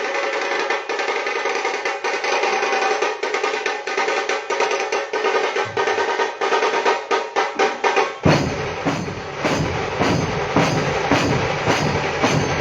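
Drum-led music: quickening drum strokes over steady held tones, then about eight seconds in a sudden switch to heavier, bass-heavy drumming.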